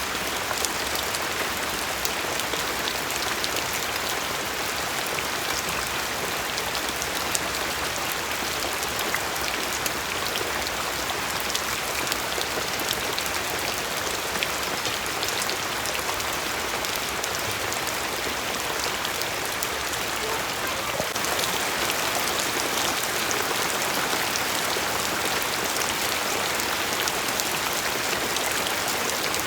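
Steady rain falling and pattering on a surface, thick with individual drop ticks, a little brighter from about two-thirds of the way through.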